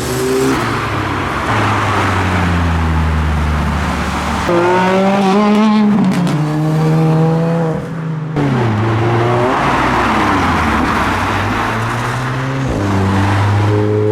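Modified cars accelerating away from a wet roundabout one after another, engines revving up and dropping in pitch at each gear change, over the hiss of tyres on the wet road.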